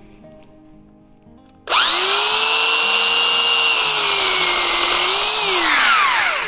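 DekoPro 8-amp corded electric chainsaw's motor starting about a second and a half in with a rising whine, running at a steady high pitch for about four seconds, then winding down near the end.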